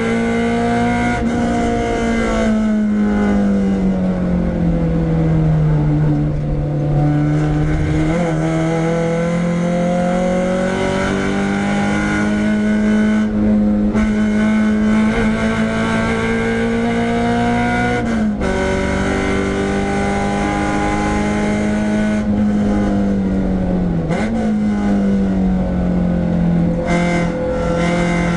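Renault Clio 172's 2.0-litre four-cylinder engine under hard track driving. Its note rises and falls with the revs and drops sharply at gear changes about 8, 18 and 24 seconds in.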